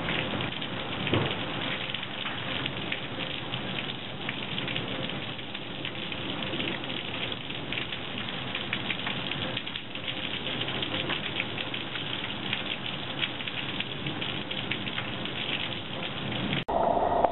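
Rain falling steadily in a storm, a dense patter of many small sharp ticks; it breaks off abruptly near the end.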